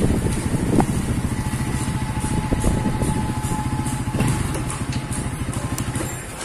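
Motorcycle engine running slowly and then idling as the bike stops, with an even, rapid low putter.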